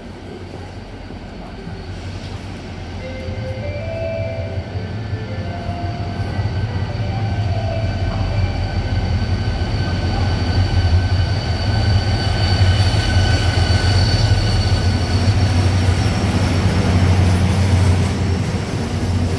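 Diesel locomotive hauling passenger cars approaches and passes close by, its low engine drone growing steadily louder. A high, steady metallic squeal from the wheels and running gear sets in about halfway through.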